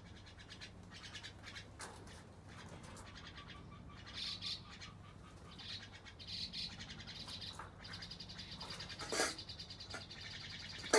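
Small wild birds chirping, with scattered high calls and a high, even trill in the second half. A brief sharp knock sounds about nine seconds in.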